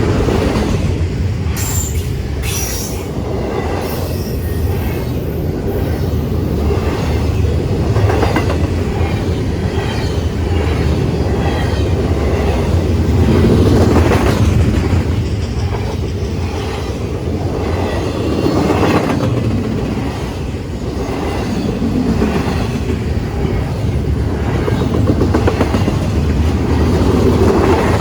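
Loud freight train cars rolling past: a steady rumble with repeated wheel clacks over the rail joints, and a brief high wheel squeal about two seconds in.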